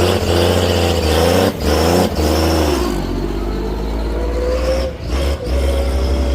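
Pulling truck's engine revving in repeated blips over a deep rumble, its pitch rising and falling with short breaks between.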